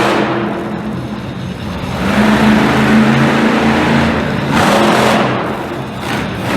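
A vehicle engine revs in repeated surges, getting louder and falling back a few times.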